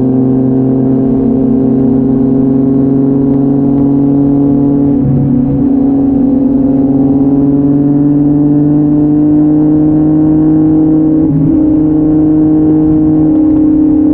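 Yamaha MT-09's 847 cc three-cylinder engine through an Akrapovic exhaust, pulling steadily on the move, its pitch rising slowly as the bike gathers speed.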